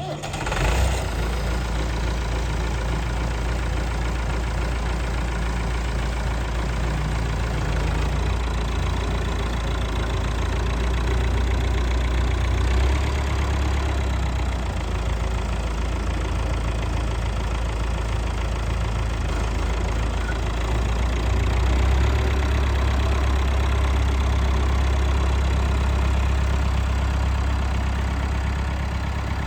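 Massey Ferguson 175 tractor engine idling steadily, a low even running sound that gets a little louder about two-thirds of the way through.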